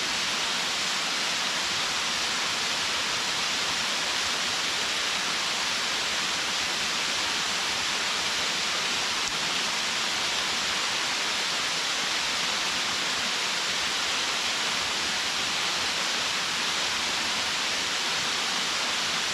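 Waterfall falling onto rocks and a pool, a steady, unbroken rush of water with its energy in the upper-middle pitches.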